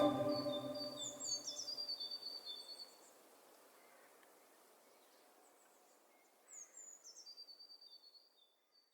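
Ambient organ-like music fading out over the first few seconds, with a faint small bird singing high, quick chirping phrases, twice: each a few falling notes followed by a run of short repeated chirps.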